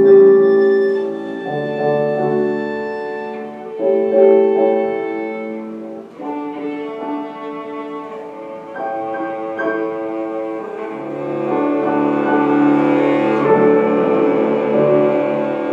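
Classical music played live on bowed strings with piano: slow, sustained notes, each held a second or two, with a low string line coming in now and then.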